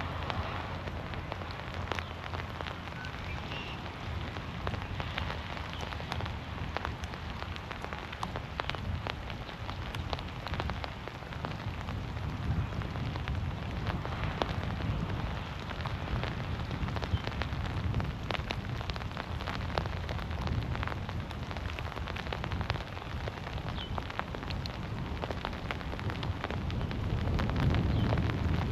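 Heavy rain falling through forest trees, dense and steady with many individual drops pattering close by. A low rumble grows in the second half and is loudest near the end.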